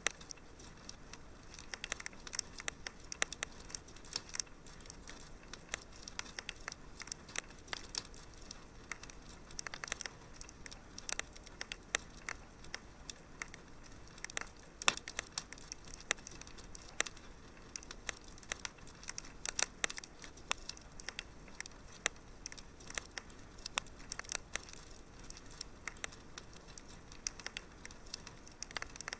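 Wood fire crackling in a fireplace: a steady stream of irregular small pops and snaps over a soft hiss.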